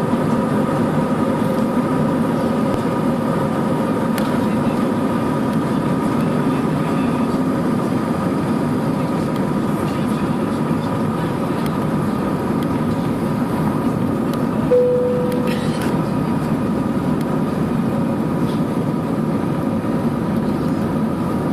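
Jet airliner cabin noise: a steady roar of engines and air, with a steady whine. A short single tone sounds once, about two-thirds of the way through.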